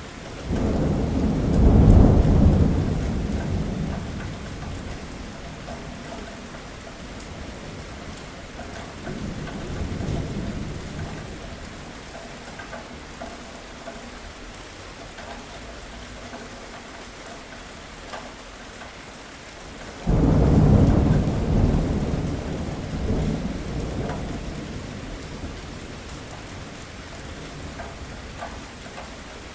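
Steady rain with rolling thunder: two loud, low rumbles, one starting about half a second in and one about twenty seconds in, each dying away over several seconds, and a fainter roll around ten seconds in.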